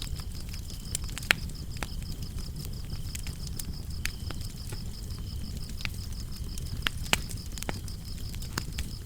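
Wood fire burning in a fireplace, with a low steady rumble and scattered sharp crackles and pops, the loudest about a second in and about seven seconds in. Crickets chirp steadily through it in a high, evenly pulsing trill, with a fainter second cricket lower in pitch.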